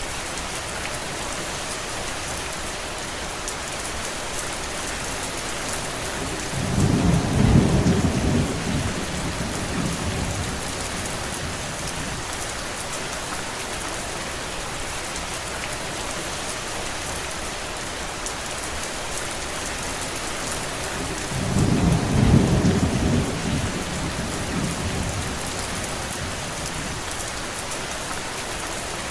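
Steady heavy rain falling, with a low rolling rumble of distant thunder swelling up twice, once about a quarter of the way in and again about three quarters through, each lasting a few seconds.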